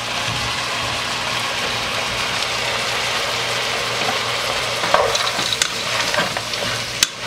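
Frozen peas and carrots, chicken and bell peppers sizzling in a hot pot, a steady hiss. From about five seconds in, a utensil stirs and scrapes against the pot, with a sharp click near the end.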